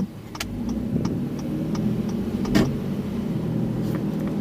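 Car engine and road noise heard from inside the moving car, the engine hum rising as it picks up speed about half a second in. A regular ticking about three times a second runs over it, and a single thump comes about halfway through.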